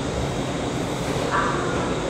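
Train noise at a station platform: a steady rumble and hiss, with a brief higher-pitched tone about one and a half seconds in.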